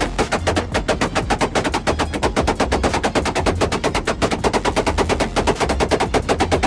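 Loud, rapid, even stutter of sharp bangs, about ten a second, typical of a car exhaust crackling while the engine is held hard at high revs.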